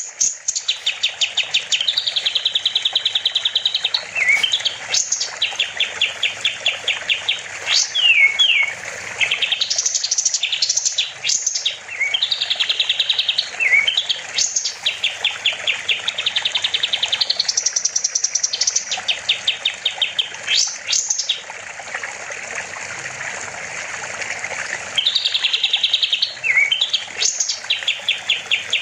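Kapas tembak songbird singing nonstop: rapid rattling trills of repeated notes alternating with quick down-sliding whistles, phrase after phrase with short pauses, and a quieter spell a little past the middle.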